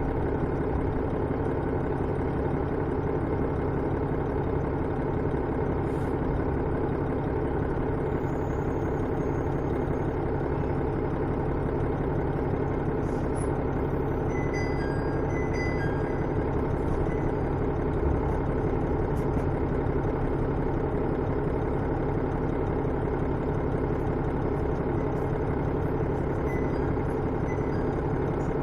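Steady diesel engine and running noise of a KiHa 110 series diesel railcar (KiHa 112-3), heard from inside the passenger cabin.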